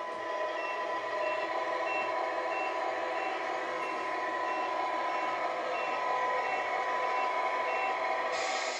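Tamiya MFC-03 sound unit in a model Volvo FH16 truck playing a diesel engine running with a reversing beeper, a short high beep about every two-thirds of a second, signalling the truck backing up. A bright hiss starts near the end.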